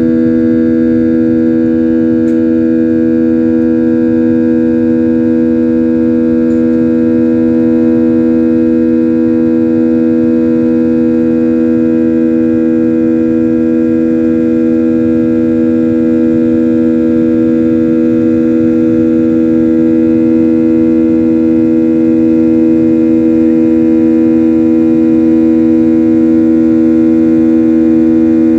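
Airliner cabin noise shortly after takeoff: a loud, steady engine drone with two strong hum tones and several fainter ones over a low rush of air.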